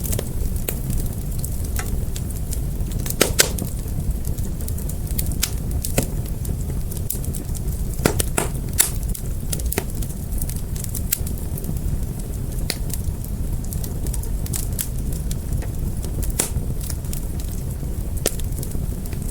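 Fire burning with a steady low rumble and irregular sharp crackling pops, a few louder pops about three seconds in and again around eight to nine seconds.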